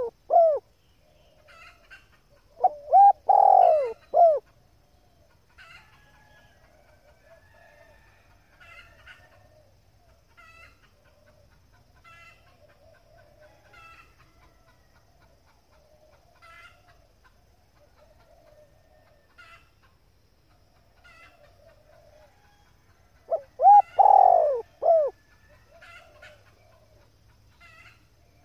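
Female spotted dove cooing: one phrase ends just after the start, another comes at about three to four seconds and a third at about twenty-four seconds, each a run of rising-and-falling coos. Faint short chirps repeat about once a second between the phrases.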